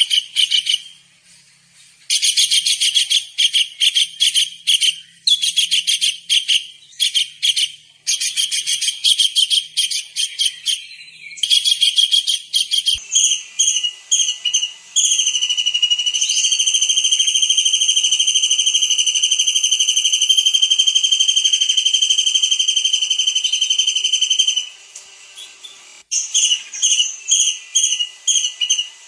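Small kingfisher (tengkek udang) calling loudly: rapid bursts of shrill, high-pitched notes, then, about halfway through, one long steady high whistle of about ten seconds, followed by more rapid stuttering notes near the end.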